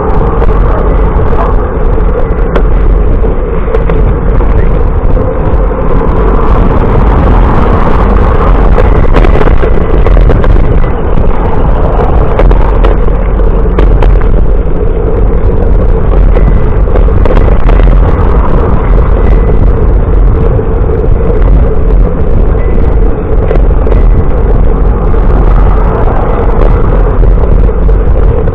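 Loud, steady wind rush buffeting the microphone of a camera riding along on a moving bicycle, with road and tyre noise underneath.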